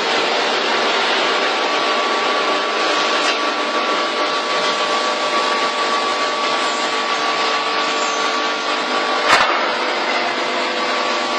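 Pet-food bag packing machine running with a steady mechanical hum and a thin held whine. One sharp clack comes about nine seconds in.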